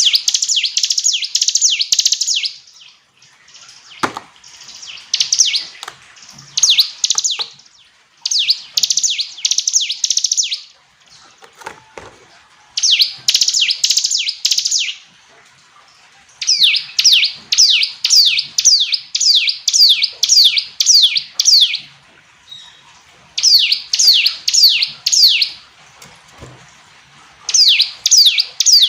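Ciblek gunung, a prinia, singing: loud phrases of rapid, high, downward-sweeping notes, about five or six a second, each phrase lasting a few seconds with short pauses between.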